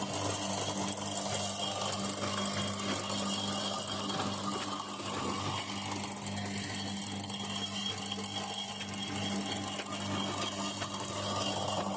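Drean Excellent Blue front-loading washing machine on its spin cycle, running with a steady mechanical hum and whirring noise. The noise is that of a broken drum shaft, which was later found snapped.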